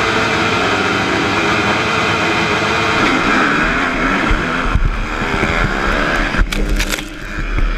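Motocross dirt bike engine running at high revs, its pitch rising and falling, with a heavy low rumble joining in about halfway and a few sharp knocks about six and a half seconds in.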